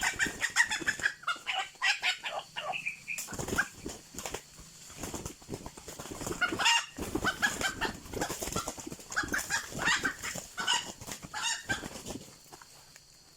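Junglefowl clucking in rapid runs of short calls with brief pauses, thinning out near the end.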